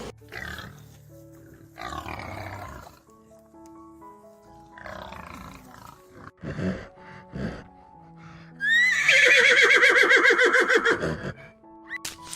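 Background music with animal calls over it. The loudest is a horse whinnying about nine seconds in, a quavering call lasting around two and a half seconds.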